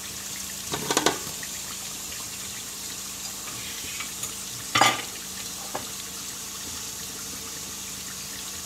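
Onions and whole spices sizzling steadily in hot oil in a metal pot. There are two short clatters, about a second in and again near the middle, as chopped tomatoes are tipped in.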